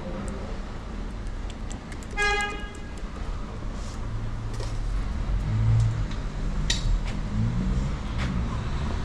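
A car horn toots once, briefly, about two seconds in, over a steady low rumble of vehicles, with scattered light clicks.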